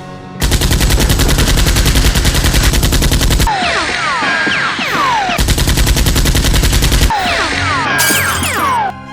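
Rapid-fire machine-gun sound effect in two long bursts, the second shorter, over background music. Between the bursts come quick falling whistle-like sweeps.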